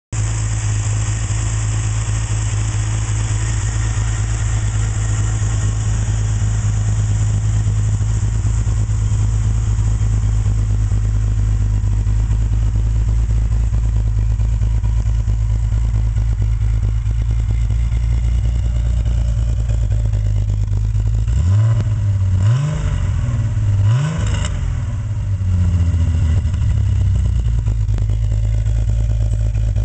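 1977 BMW E12 530i's fuel-injected 3.0-litre straight-six idling steadily. About two-thirds of the way through, a few quick throttle blips make the revs rise and fall, then it settles back to idle.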